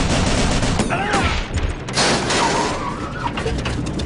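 Rapid, sustained machine-gun fire in a film's WWII aerial dogfight sound mix, layered over a heavy low rumble, with a louder blast about two seconds in.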